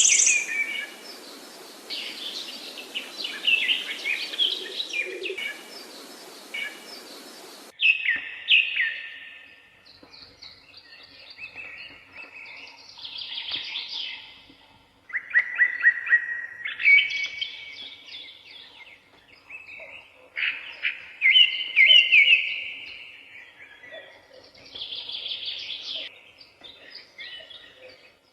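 Wild songbirds singing in a run of separate short phrases of chirps and trills, one every few seconds. For the first eight seconds a steady hiss lies under the song, then it cuts off suddenly.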